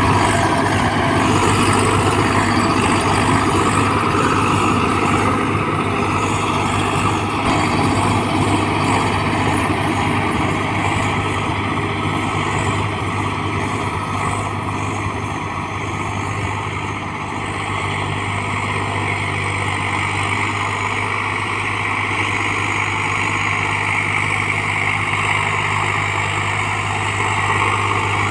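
Swaraj 744 XT tractor's diesel engine running steadily with a constant low hum.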